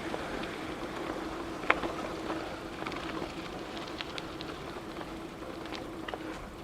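Riding a bicycle: tyres rolling steadily over the road with a faint steady hum, and scattered light clicks and rattles, one sharper click a little under two seconds in.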